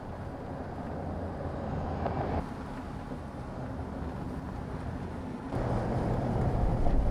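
Vehicle driving: steady engine and road noise, mostly low-pitched, changing abruptly twice, about two and a half and five and a half seconds in.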